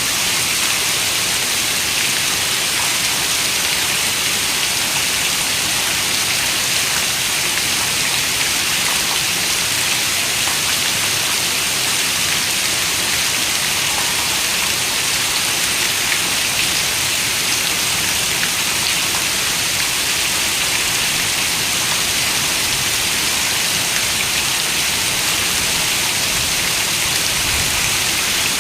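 Steady rain falling: an even, bright hiss with no thunder or sudden sounds.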